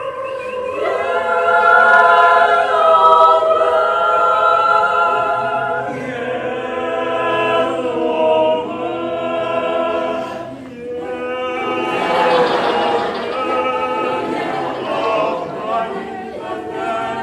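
Choir singing a cappella, holding long chords in close harmony.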